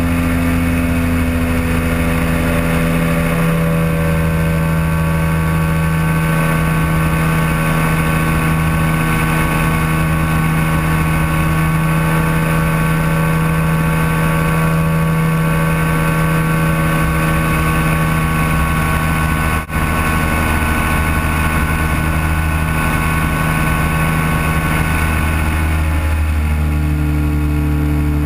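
Powered parachute engine and propeller running steadily at cruise, heard from the open cockpit with wind noise over it. The engine note shifts near the end.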